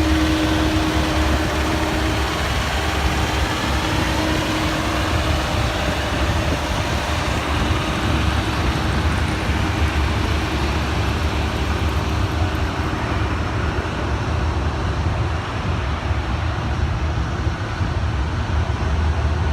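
Steady vehicle rumble of engine and road noise, with a faint steady tone that fades out about three seconds in.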